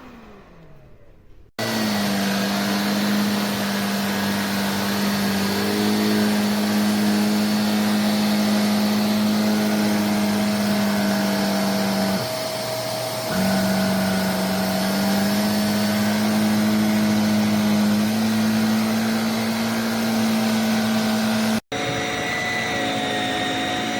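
Handheld mattress vacuum cleaner running with a steady motor hum. It starts abruptly a second or so in, drops briefly around the middle, and breaks off for an instant near the end before running on.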